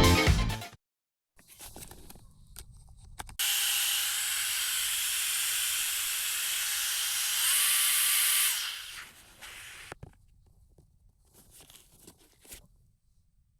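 Camping gas burner hissing steadily, switched on abruptly, with a faint whistling tone that steps up in pitch about four seconds in; it fades out after about five seconds, followed by a few faint ticks.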